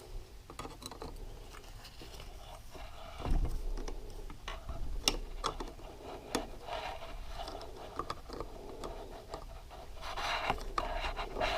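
Scattered metal clicks and scraping as a screwdriver pries up and bends the clutch nut's lock washer tab, with a dull thump about three seconds in.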